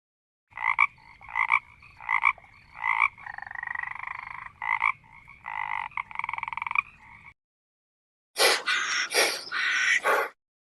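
Frog calling: a series of short croaks a little under a second apart, broken by two longer trilling calls. After a short pause near the end comes a different, harsher sound in four or five strokes.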